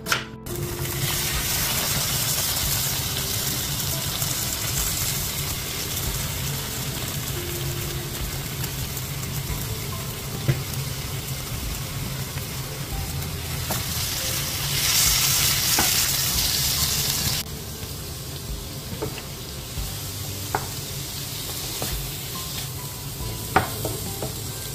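Webfoot octopus in red chili sauce sizzling hard in a hot frying pan while being stir-fried with carrots and cabbage, a wooden spatula knocking against the pan a few times. The sizzle swells for a couple of seconds about two-thirds of the way through, then drops to a quieter fry.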